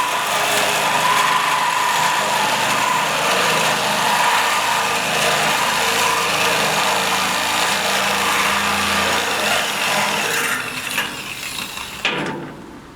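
Handheld angle grinder working on steel, running loud and steady with a constant whine, then easing off and spinning down near the end.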